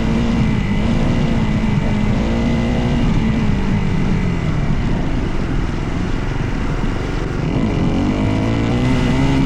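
Dirt bike engine running close to the microphone, its pitch easing off about halfway through and climbing again near the end as the throttle is worked.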